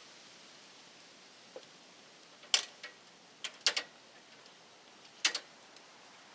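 A handful of short, sharp clicks and taps, some in quick pairs, as of small tools or electrical hardware being handled, over faint room noise.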